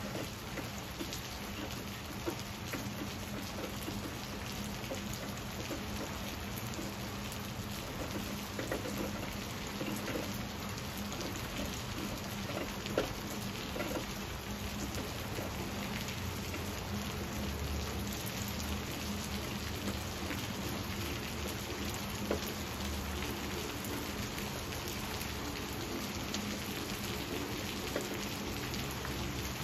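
Steady rain falling on leaves and hard surfaces, with scattered sharper drips. A low rumble of distant thunder sets in around the middle and fades again.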